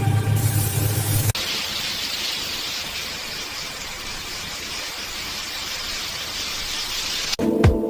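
An engine running cuts off sharply about a second in. A steady spraying hiss follows, and music with a beat comes in near the end.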